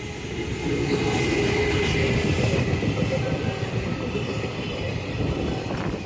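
Freight train passing through a station platform without stopping: a loud, steady rumble and clatter of wagon wheels on the rails, swelling about a second in.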